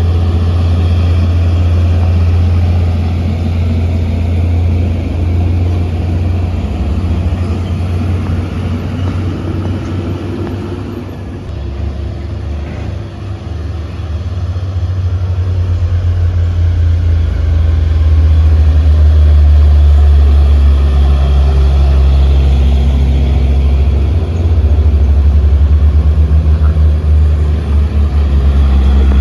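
Heavy truck's diesel engine pulling hard up a steep grade, a loud low drone. It eases off somewhat partway through, then grows louder again.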